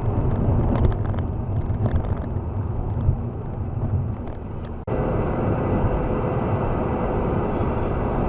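Steady vehicle rumble of road and engine noise picked up by a dashcam, with a few faint clicks. About five seconds in it cuts abruptly to a different steady rumble with a faint held hum.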